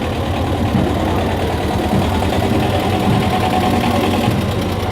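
A motor vehicle's engine idling steadily close by.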